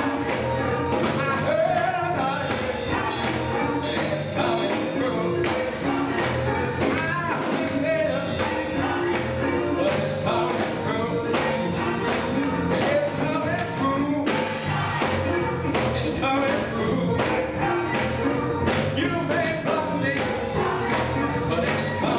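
Live gospel music with a steady beat and busy percussion.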